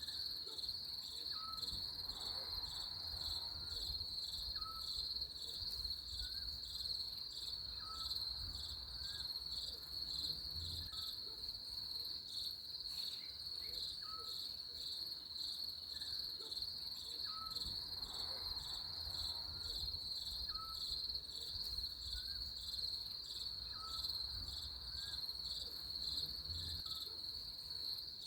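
Steady chorus of crickets, a continuous high-pitched pulsing trill, with short faint chirps repeating about once a second over a low rumble.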